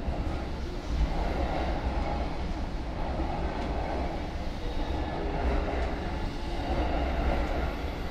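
Standing electric commuter train, a JR E231 series, with its doors open at a platform: a steady low rumble and hum from its idling equipment, mixed with platform ambience. The swell about a second in is slight.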